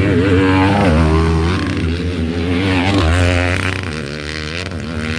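Motocross bike engines revving hard, their pitch rising and falling as the throttles open and close, with more than one bike heard at once.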